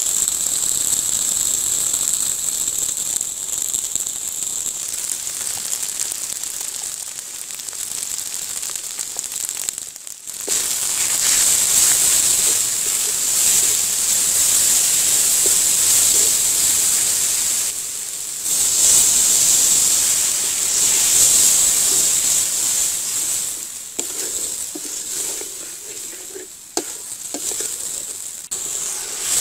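Onions, green chillies and spices sizzling as they fry in oil in a metal wok, stirred with a wooden spatula. The sizzle breaks off briefly twice and is quieter near the end.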